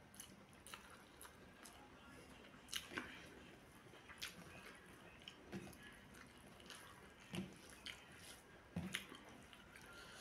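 Faint wet mouth sounds of chewing rice and chicken curry: soft smacks and clicks about once a second, with the squish of fingers mixing rice on the plate.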